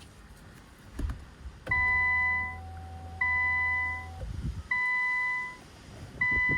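Infiniti Q50 warning chime beeping four times, about one every second and a half, after a click. A steady low hum runs under the first two beeps. The car is being tried for a start on a dead battery and will not start.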